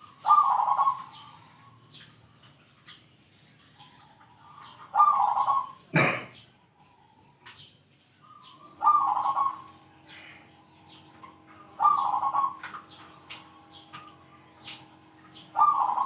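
Zebra dove (perkutut) singing, repeating its cooing 'ke-tek-kung' phrase five times a few seconds apart, with a big final 'kung'. A single sharp click about six seconds in.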